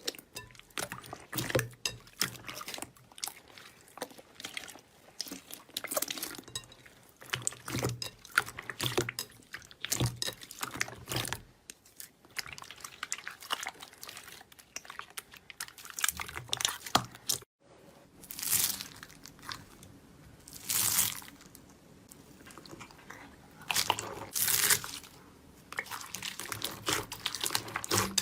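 Close-up crunching and crackling of crunchy slime being pressed and squeezed: dense, irregular crackles. After an abrupt cut about two-thirds of the way through, the crackles give way to slower, longer squishing swells.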